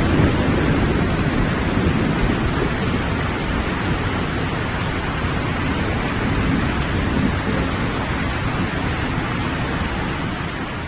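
Steady rain with low, distant thunder rumbling, the rumble strongest in the first second or so. The whole sound starts to fade near the end.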